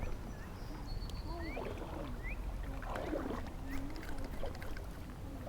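Creek water sloshing and splashing around legs wading in the shallows, over a steady low rumble, with a few brief chirps.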